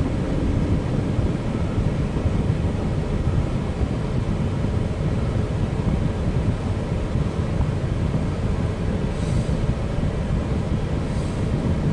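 Empty CSX coal train's cars rolling past: a steady low rumble of steel wheels on the rails.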